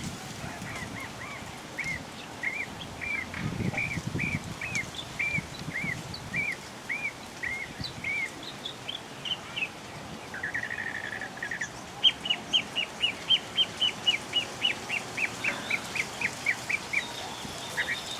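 Birds calling: a short arched note repeated about twice a second, a brief buzzy note about ten seconds in, then a faster run of sharp high notes about five a second that stops about a second before the end.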